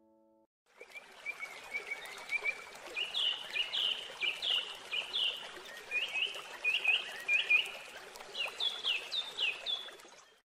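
A bird chirping in runs of short notes, about two to four a second, over a steady background hiss. It starts about a second in and stops just before the end.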